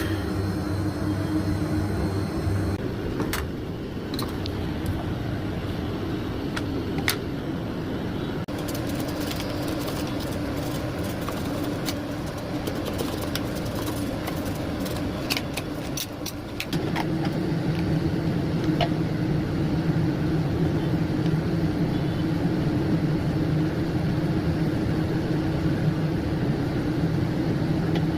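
A motor running with a steady drone; about two-thirds of the way through it shifts to a higher pitch and gets a little louder. Scattered sharp clicks and knocks sound over it in the first half.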